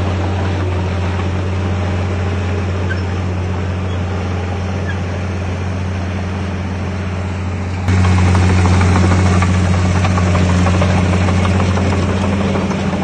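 Heavy earthmoving machine's diesel engine running steadily with a deep hum; about eight seconds in it suddenly becomes louder.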